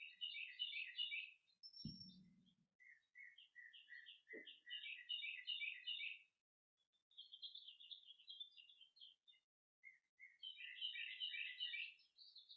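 Songbirds singing: phrases of rapid, high chirps repeating with short gaps, faint throughout. A soft low thump comes about two seconds in.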